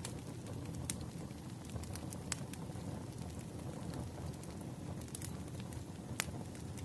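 Wood fire crackling: a steady low rumble of burning logs with scattered sharp pops, three of them louder, about a second in, just past two seconds and near the end.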